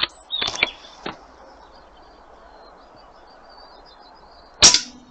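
Air gun handling clicks in the first second, then a single sharp shot near the end as the pellet is fired. Birds chirp faintly throughout.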